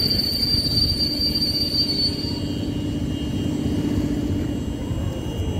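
PKP Intercity passenger coaches rolling slowly through the station with a steady low rumble, and a thin high-pitched squeal that dies away about two seconds in.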